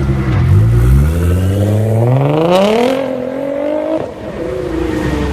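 Nissan GT-R R35's twin-turbo V6 with an Fi aftermarket exhaust revving. The pitch climbs steadily for about two and a half seconds, then holds. It drops off about four seconds in and sinks slowly.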